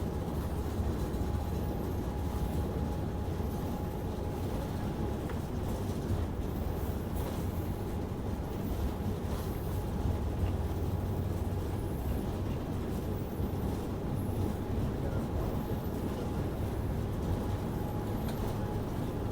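Boeing airliner rumbling steadily on the ground, a deep continuous drone of engines and wheels with a faint steady whine above it and a few brief knocks.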